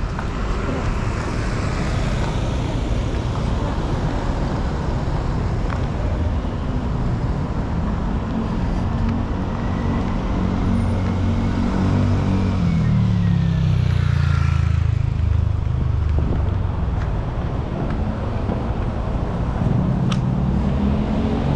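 Busy street traffic with engines running continuously. About twelve seconds in, one vehicle passes close, and its engine grows louder and falls in pitch as it goes by.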